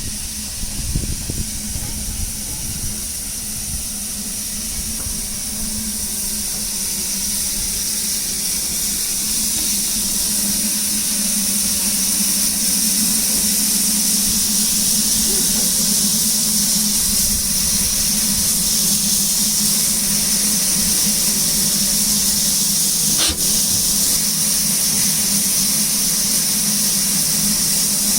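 Steam locomotive hissing steadily, growing louder over the first dozen seconds and then holding level, with one sharp clank about 23 seconds in.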